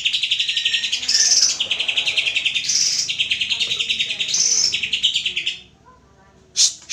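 Greater green leafbird (cucak ijo) singing a fast, unbroken chatter of rapid notes in repeating phrases. The song stops abruptly about five and a half seconds in, and a short sharp sound follows just before the end.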